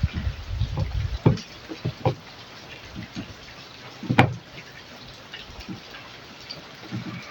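Scattered knocks and clicks from handling tools and a TV circuit board during resoldering work, with heavier thumps in the first second and one sharp click about four seconds in.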